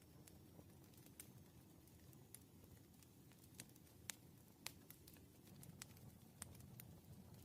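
Quiet room tone with a dozen or so faint, sharp, irregular clicks and taps, typical of a pen working on paper at a desk during problem solving; the loudest two come about four and a half seconds in.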